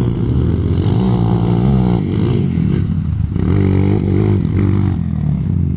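Motorcycle engine running and being revved, its pitch rising and falling several times.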